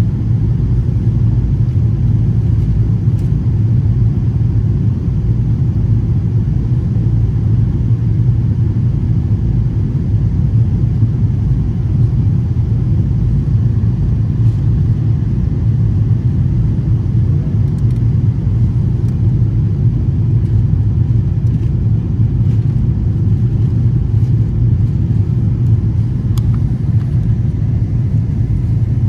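Steady low rumble inside the cabin of an Airbus A330 airliner in flight, with a few faint ticks.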